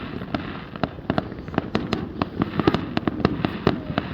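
Fireworks display: a rapid, irregular string of sharp cracks and pops, several a second.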